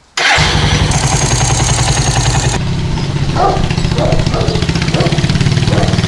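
Suzuki TU250 Volty's single-cylinder four-stroke engine comes in suddenly and runs at idle with a rapid, even low pulsing; a high hiss over the first two and a half seconds stops abruptly.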